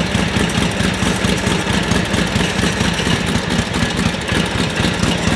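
1942 Harley-Davidson WLA's 45-cubic-inch flathead V-twin idling steadily, with a rapid, even pulsing beat.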